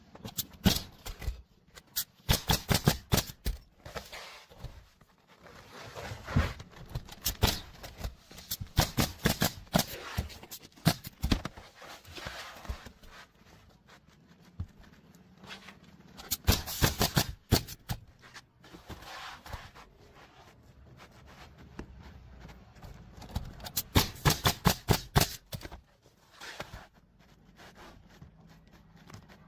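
Bursts of sharp knocks and clicks, many in quick succession, with quieter gaps between the clusters.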